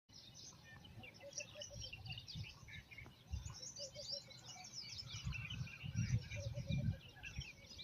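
Many birds chirping and calling together in a dense chorus, with short runs of a repeated lower note among the high chirps. Irregular low rumbles, like wind on the microphone, come and go and grow stronger near the end.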